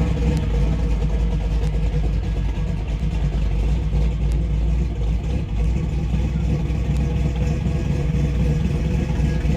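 A car engine idling steadily, a low even running sound with no change in speed.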